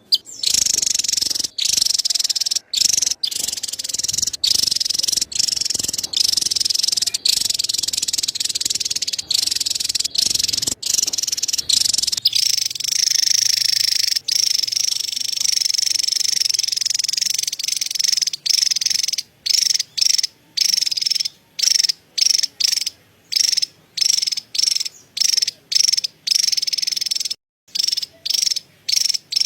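Javan tesia's chattering call: a fast, high-pitched continuous trill, broken by many short gaps that come more often in the second half.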